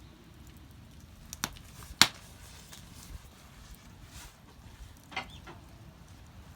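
A small wood fire crackling, with a few sharp pops; the loudest comes about two seconds in.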